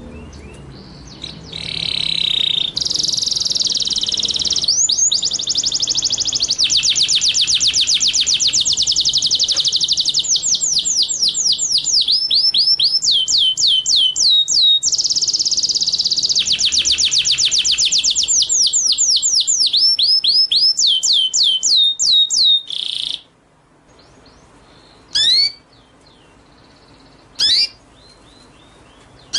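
Small songbird singing long runs of fast, high trills made of rapidly repeated sweeping notes. About 23 seconds in the song stops, and a few single high calls follow a couple of seconds apart.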